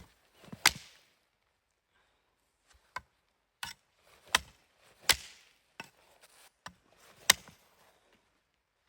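Firewood being chopped: about seven sharp, irregularly spaced strokes of a blade into wood. The loudest strokes fall near the start, about five seconds in and about seven seconds in.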